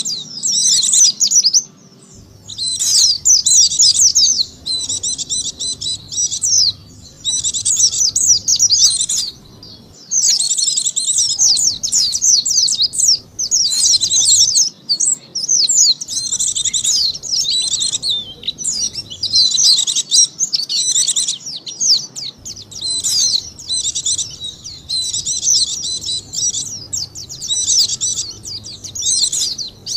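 White-eye (pleci) song used as a lure call: fast, high twittering phrases of one to two seconds, one after another with short breaks.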